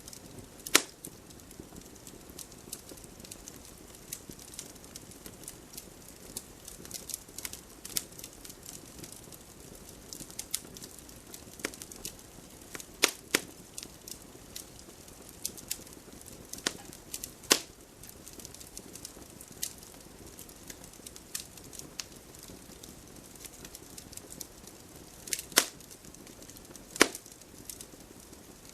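Campfire of burning wood crackling, with irregular small pops and a handful of loud, sharp snaps.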